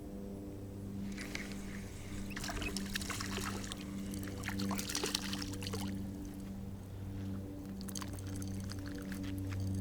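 Water splashing and sloshing, with small clicks and knocks, from about one to six seconds in, over steady low background music.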